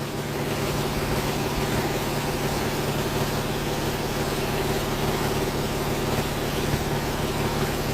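An engine running at a steady speed, a constant drone with a broad hiss over it.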